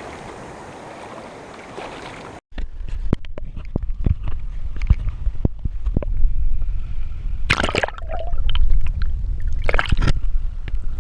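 Steady rush of flowing water. After a break about two and a half seconds in, close sloshing and knocks in the water over a heavy low rumble, with two louder splashy bursts near the end.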